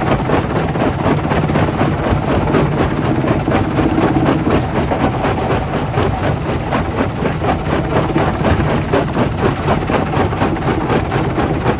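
Stone crusher plant machinery running loudly: a steady low diesel engine hum under a dense, continuous clatter of rock.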